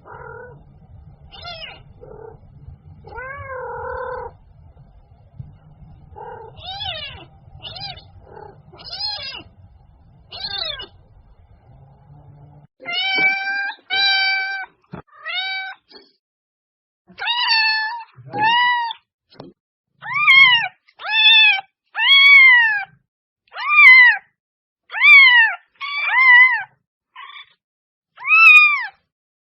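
Domestic cat meowing again and again: softer meows over a low hum in the first half, then loud, drawn-out meows about one a second in the second half.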